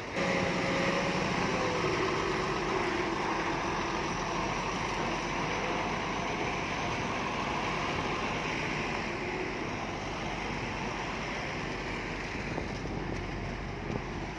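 Diesel engine of heavy earthmoving machinery running steadily under load.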